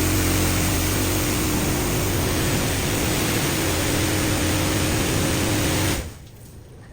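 Touchless automatic car wash machine running: a steady hiss of water spray over a pump hum, which cuts off suddenly about six seconds in.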